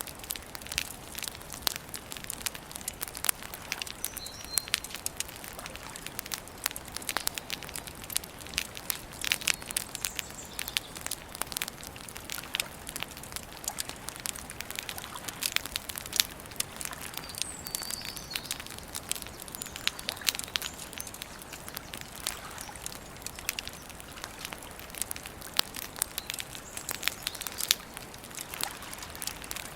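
Wood campfire burning with steady hiss and frequent irregular crackles and pops. A bird chirps faintly a couple of times.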